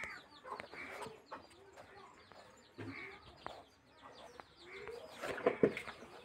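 Short, irregular bird calls, with a quick run of sharp calls about five seconds in.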